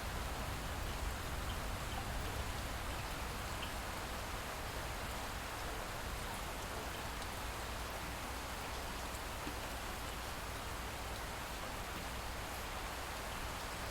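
Light rain falling steadily, an even hiss with a few faint scattered drop ticks.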